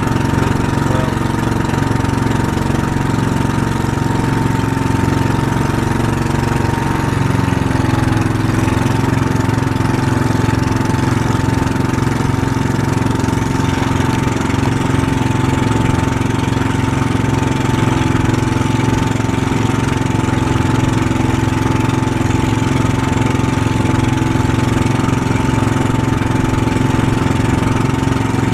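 Pump boat's engine running loud and steady while under way. Its pitch shifts slightly about eight seconds in.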